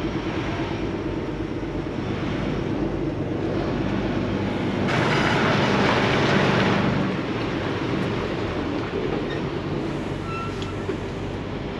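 Semi truck's diesel engine running steadily while it is backed into a spot. About five seconds in it gets louder for roughly two seconds with a rush of hissing noise, then settles back.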